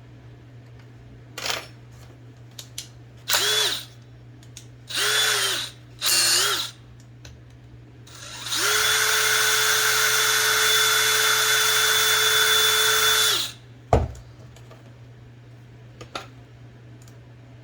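Small electric drill running in three short bursts, then one steady run of about five seconds, its pitch rising as it spins up and falling as it stops each time, drilling into a part of an IBM Selectric II typewriter. A sharp knock follows the long run, with a few light clicks.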